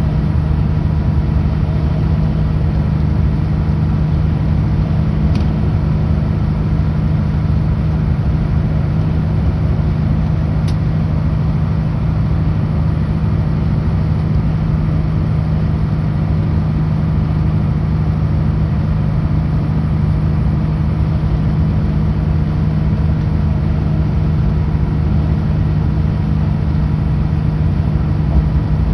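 Kenworth W900L semi truck's diesel engine running with a steady low drone.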